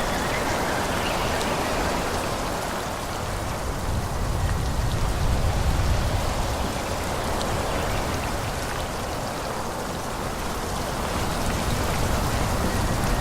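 Forest ambience of wind blowing through trees, a steady hiss that swells a little about five seconds in and again near the end.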